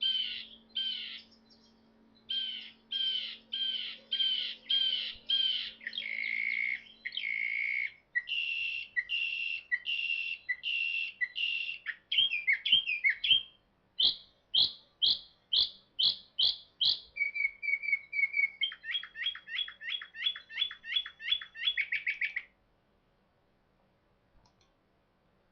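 Northern mockingbird singing: a run of short phrases, each repeated several times in quick succession before the bird switches to a new one, mixing whistled and chattering notes. The song stops about 22 seconds in.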